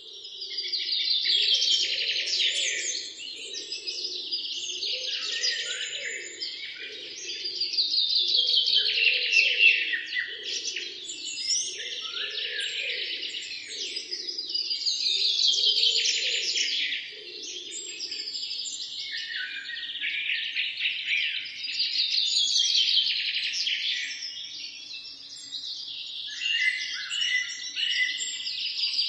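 Several birds singing and chirping together in a morning chorus, with a loud, rapid song phrase swelling up about every seven seconds.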